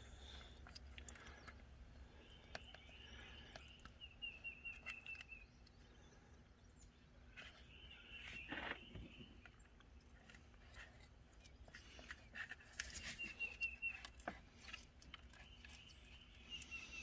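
Birds chirping in short rapid trills several times, over faint scattered clicks and taps.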